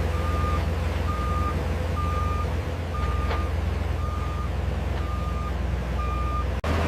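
A heavy diesel construction vehicle's reversing alarm beeping about once a second over the steady low drone of its engine; the sound cuts off abruptly near the end.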